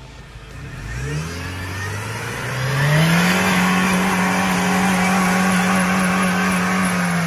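1996 Jeep Wrangler's four-cylinder engine revved hard under throttle: the revs climb over about two seconds, then hold flat at the top, held at the rev limiter, and begin to fall at the very end.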